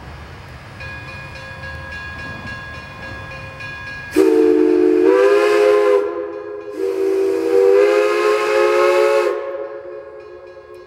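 Steam locomotive No. 98's chime whistle sounds two long blasts, each stepping up slightly in pitch as the valve opens further. Two long blasts are the railroad signal for a train about to move forward. A fainter ringing tone is heard in the first few seconds and again near the end.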